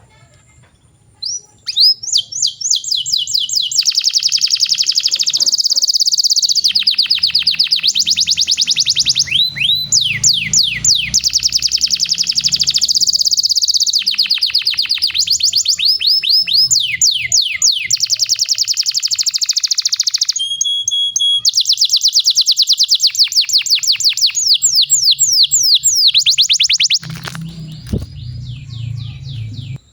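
Domestic canary singing long rolling trills of rapidly repeated high notes, phrase after phrase with short breaks between them, starting about two seconds in and easing off near the end.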